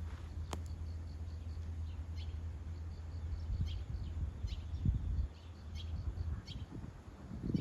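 Outdoor ambience: short, faint high chirps repeating every second or so, typical of small birds, over a steady low hum that drops away about five seconds in. A sharp click sounds about half a second in, and a few low thumps come near the middle and the end.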